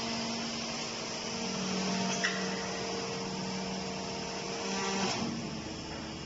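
Industrial machinery running with a steady motor hum, a sharp click about two seconds in, and one of its tones stopping a little after five seconds.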